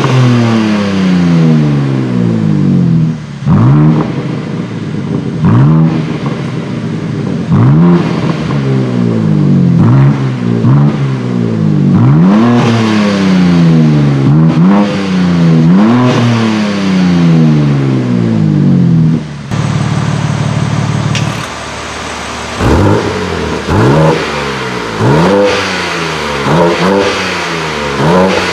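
BMW M4 G82 Competition's twin-turbo straight-six, through an Akrapovic titanium slip-on exhaust, free-revving over and over: each blip climbs quickly and then falls away slowly as the revs drop. It settles to a steady idle for a couple of seconds about two-thirds through, then gives a run of short, quick blips near the end.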